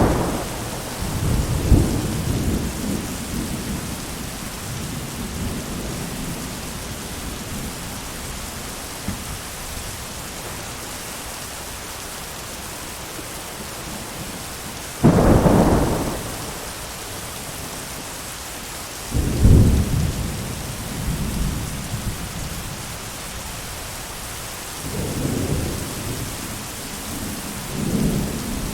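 Thunderstorm: steady rain with repeated thunder. A low rumble is dying away at the start, a sharp thunderclap comes about halfway through, another clap follows a few seconds later with a rolling rumble, and softer rumbles come near the end.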